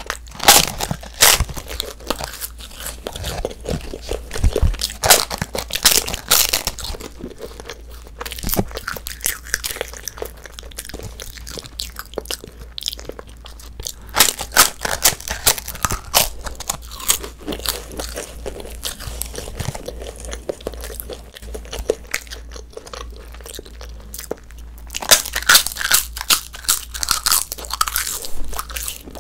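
Close-miked biting and chewing of crisp sheets of grape-flavoured edible colored paper: loud crackly crunches in bursts, with a quieter stretch of chewing a little past the middle.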